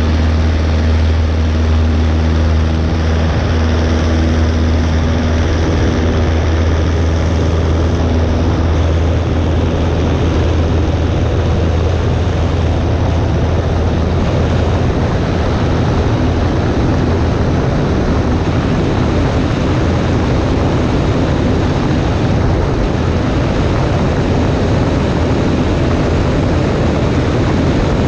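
Cessna 140A's piston engine and propeller running steadily in flight: a constant low drone under an even rushing noise. The lower engine tones weaken about nine seconds in.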